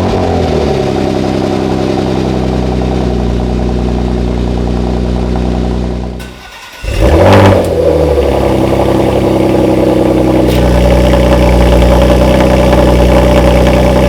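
Porsche Macan S twin-turbo V6 running through its exhaust, settling into a steady idle. About six seconds in it drops away briefly, then flares up in a short rev that rises and falls, and settles back into steady loud running.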